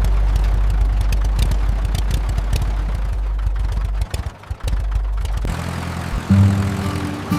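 Tractor engine running with a low, steady rumble and a dense rattle of clicks, which drops out briefly about four seconds in. Near the end, steady pitched tones take over.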